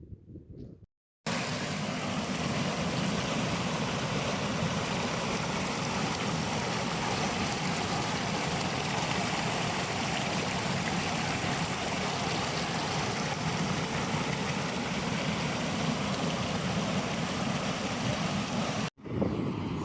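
Water rushing steadily in a stream, an even roar with no change in strength, starting and stopping abruptly at cuts about a second in and near the end.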